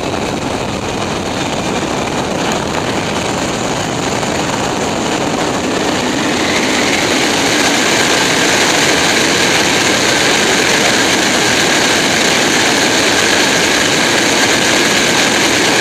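Loud, steady rush of airflow and jet engine noise at a Boeing 747's landing gear during landing. It grows a little louder about six seconds in, when a high whine joins it.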